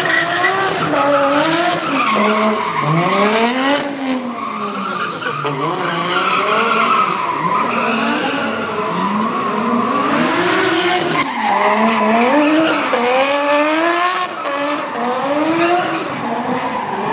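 Nissan S15 Silvia drift car's engine revving up and down again and again as it drifts, with tyres screeching on the tarmac.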